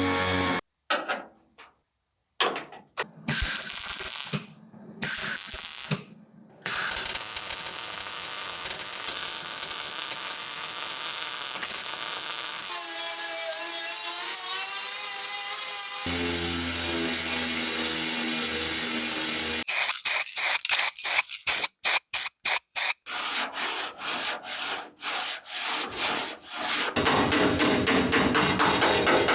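A string of metalworking workshop sounds cut together: a power tool running steadily, then a steady motor hum, then rapid repeated strokes of a tool working metal.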